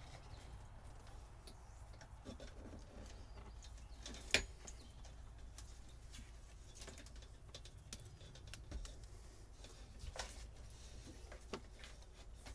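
Faint scattered clicks and light knocks from hands working at old boat wiring and switches, with one sharper click about four seconds in, over a low steady hum.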